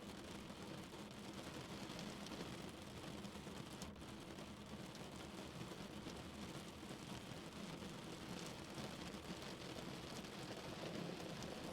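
Steady rain falling on a car, heard from inside the cabin: an even hiss of rain with many small drop ticks over a constant low rumble.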